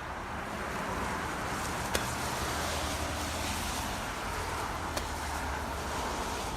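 A vehicle engine running steadily, a low hum under a broad rushing noise, with two short sharp clicks about three seconds apart.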